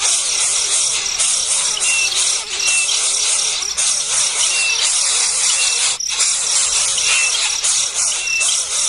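Baby birds calling in a dense, continuous high-pitched chorus, with a short chirp about once a second and a brief break just after six seconds.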